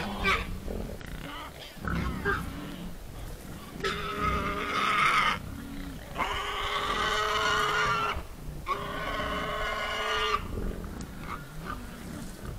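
A herd of wild boars grunting, with three long squeals starting about four, six and nine seconds in.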